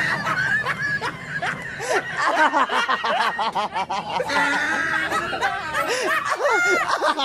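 People laughing hard, with several voices overlapping in quick, repeated rising-and-falling peals.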